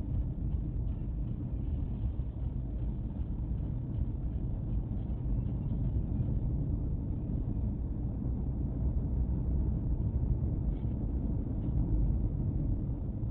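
Steady low rumble of a car driving, its engine and road noise heard from inside the vehicle.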